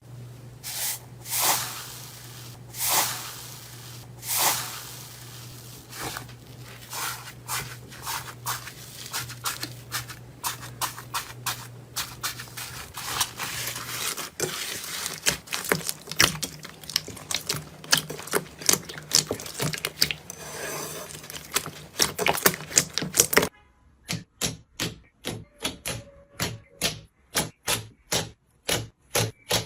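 Slime being squeezed, stretched and poked by hand, making a stream of wet clicks and popping air bubbles. It changes between clips: dense crackling at first, then about a second and a half of spaced, separate pops near the end.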